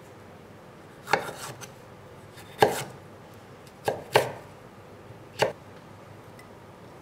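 Kitchen knife striking a cutting board in five separate, unhurried cuts, two of them close together near the middle.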